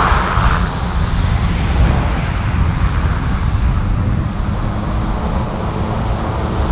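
Aircraft engine noise: a steady deep rumble, with a higher rushing sound that drops away about half a second in.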